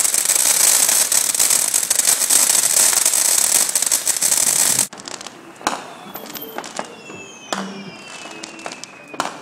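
Fireworks going off close by. A dense, rapid crackling fills the first five seconds and cuts off suddenly. After it come scattered sharp bangs and pops, with a few falling whistling tones.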